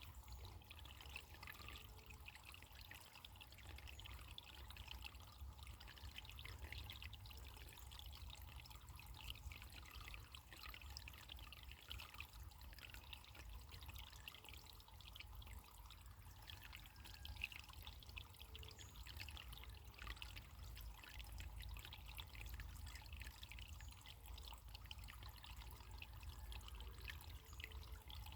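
Faint running water trickling steadily over a low, steady rumble.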